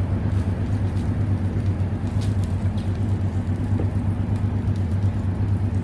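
A motor running steadily with a low, slightly pulsing hum, with a few faint clicks over it.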